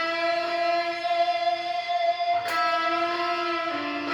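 Electric guitar holding a sustained E note bent up half a tone, picked again about two-thirds of the way through, then stepping down to a lower note near the end.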